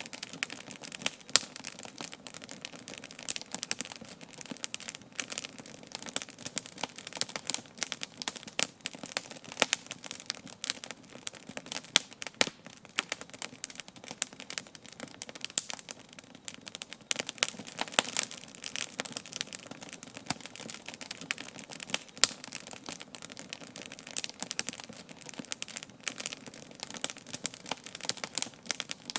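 Wood campfire burning, with constant irregular crackling and snapping pops over a steady hiss of the flames.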